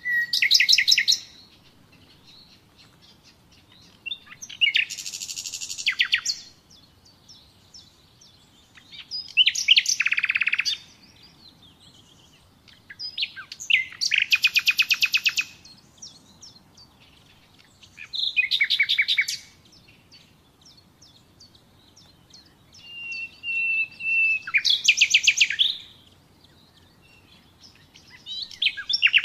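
Common nightingale singing: separate phrases every four to five seconds, each a couple of seconds of rapid repeated notes with short pauses between. One phrase opens with a held whistle and breaks into a fast trill.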